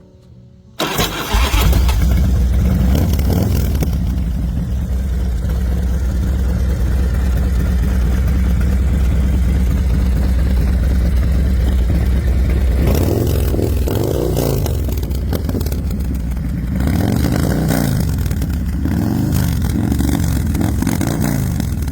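2004 Big Dog Chopper's V-twin engine running steadily after coming in abruptly about a second in. In the second half it is revved up and let back down several times.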